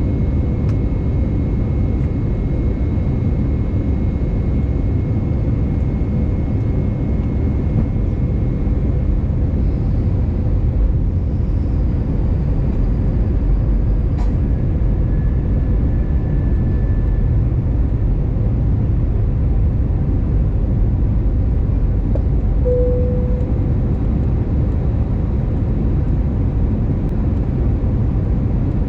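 Steady, loud low rumble of engine and airflow noise inside the cabin of an Airbus A320neo in flight. A short tone is heard about two-thirds of the way through.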